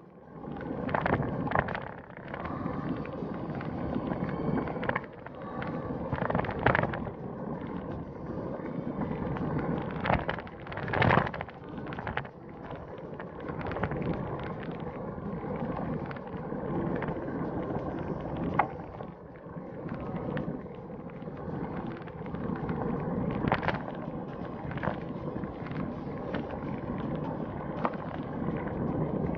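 Wind buffeting the microphone over the rolling noise of a bicycle ride, with frequent short knocks and rattles from bumps.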